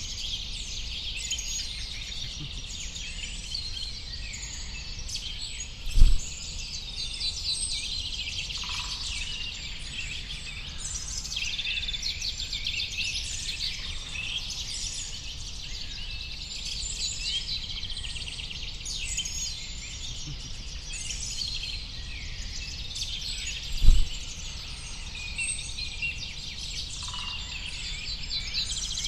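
A chorus of many small songbirds chirping and trilling at once, high-pitched and continuous, over a steady low rumble. Two brief low thumps stand out, about six seconds in and again some eighteen seconds later.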